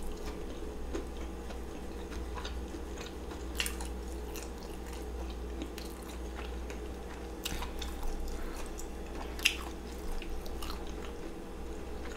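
Chewing and biting into deep-fried battered seafood, with wet mouth sounds and a few sharp crackles spread through. A steady low hum runs underneath.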